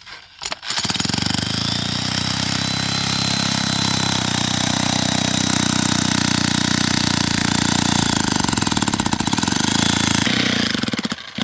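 A small engine running fast and steadily, coming up about a second in and falling back to a rapid, pulsing idle near the end.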